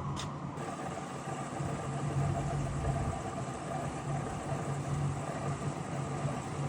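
Washing machine running on a test cycle after its drum bearings and seal were replaced, a steady low hum with an even hiss of water filling, and a single click just after the start.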